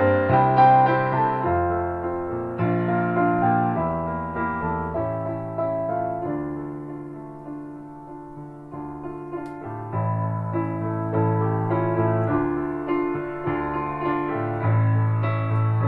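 Soft piano music, with a bass line under a slow melody of struck, fading notes; it dies down about halfway through, then grows louder again.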